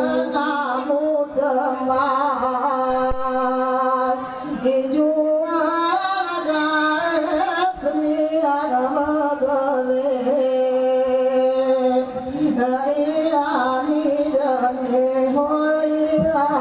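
Men singing a high-pitched Saman chant from Gayo, a wavering melody held on long notes with short breaks between phrases.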